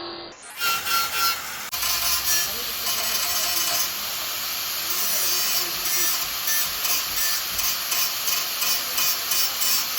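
Car bodywork being sanded: a steady scratchy rasp that settles into regular back-and-forth strokes, about three a second.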